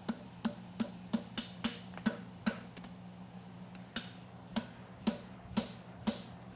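Hammer blows on hot horseshoe steel against an anvil, about two strikes a second with a short pause in the middle, as the bar is folded shut and shaped at the toe of a front suspensory shoe.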